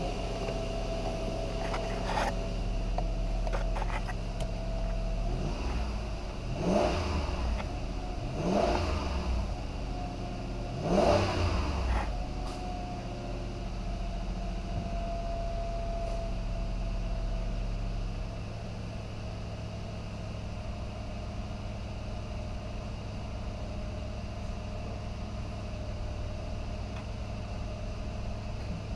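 2004 Lexus GX 470's 4.7-litre V8 idling steadily, blipped up to higher revs three times in quick succession before settling back to a steady idle.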